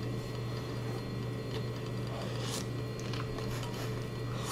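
A person biting into and chewing a soft flour-tortilla taco: a few short, scattered mouth sounds over a steady low hum.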